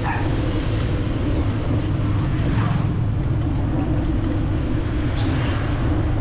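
Busy city street traffic: motorbike and vehicle engines running in a steady low rumble. A thin high squeal slides downward about a second in.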